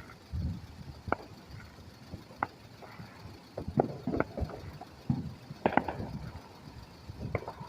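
Fireworks going off in the distance: irregular sharp pops and bangs, a dozen or so, with a low rumble under them.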